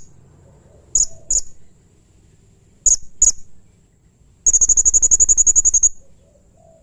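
Blue-crowned hanging parrot (serindit) calling: two pairs of shrill, very high squeaky notes, then a rapid trill of about fourteen notes a second lasting about a second and a half.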